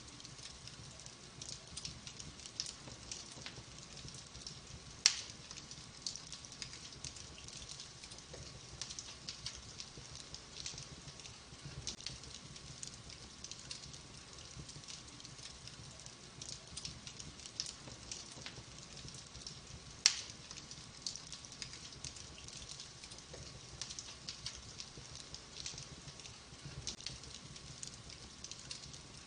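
Wood fire in a fireplace, burning logs crackling steadily with many small clicks and two sharp loud pops, one about five seconds in and one about twenty seconds in.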